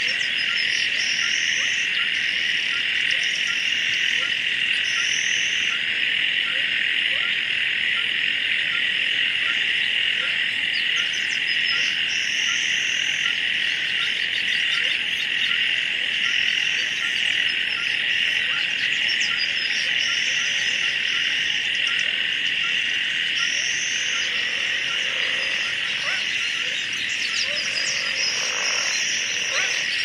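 Marsh ambience: a dense, steady chorus of insects with frogs croaking and recurring higher trills, and a few lower calls near the end.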